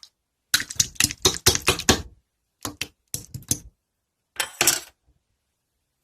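Rapid runs of sharp clicks and clatter in three bursts, the first and longest about two seconds, then two shorter ones, much like fast typing on keys.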